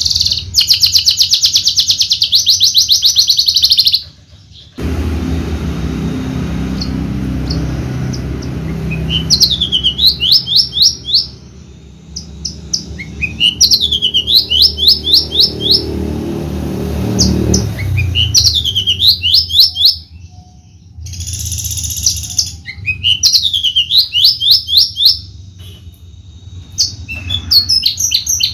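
Javan bush lark singing: a loud, fast trill in the first four seconds, then phrases of quick swooping notes repeated every few seconds, with a buzzy note a little past two-thirds of the way through.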